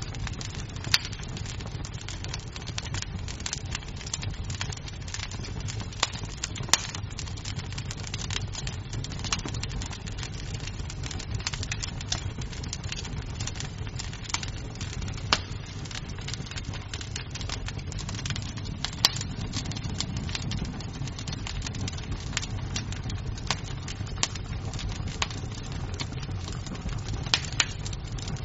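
Wood fire in a fireplace crackling: a steady low rumble of flames with irregular snaps and pops of burning wood, a few sharper pops standing out.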